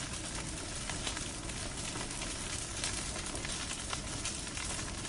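Wood fire burning in a fireplace: a steady hiss with frequent small, irregular crackles and pops.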